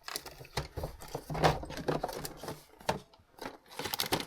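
Rummaging through stored objects up on a shelf: irregular clicks, knocks and rustling as things are moved and handled.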